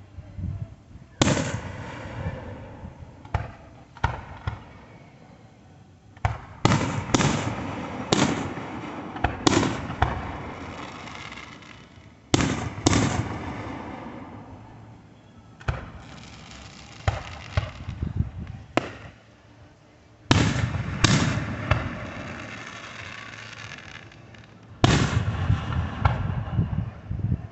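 Fireworks going off: a long run of sharp bangs, some coming in quick pairs or triples, each trailing off over a second or two before the next.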